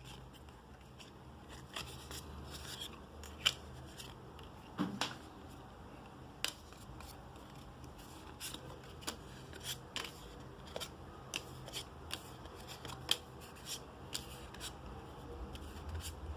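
Magic: The Gathering trading cards being handled and flipped through one by one, a run of sharp card snaps and light rustling. The snaps come irregularly at first, then about two a second in the second half.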